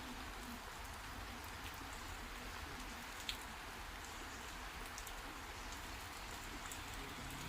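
Steady heavy rain, with one sharp tap about three seconds in.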